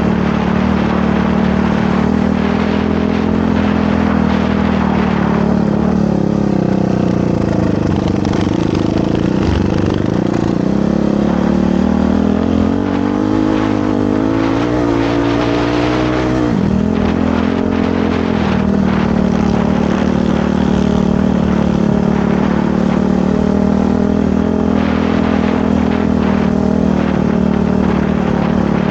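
Motorcycle engine running under way: engine speed sags about eight to ten seconds in, climbs steadily for a few seconds, then drops suddenly about sixteen seconds in before settling back to a steady pitch.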